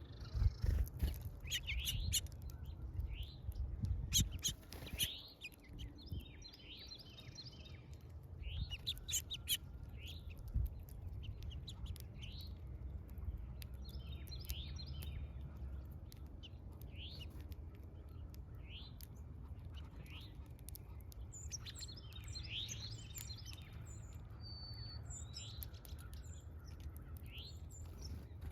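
Birds chirping: many short, quick chirps coming in clusters, with a few sharp clicks in the first five seconds and again around nine seconds, over a steady low rumble.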